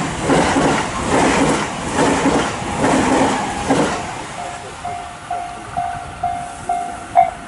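A train passes close by, its wheels clattering in a steady rhythm over the rail joints. The clatter fades about four seconds in, leaving a level-crossing warning bell dinging about twice a second. A sharp click comes near the end.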